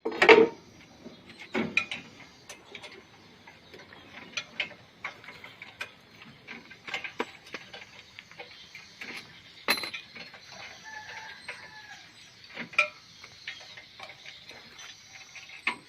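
Irregular metal clinks, clicks and knocks of hand tools working on a rice combine harvester as it is taken apart, with a loud clank right at the start.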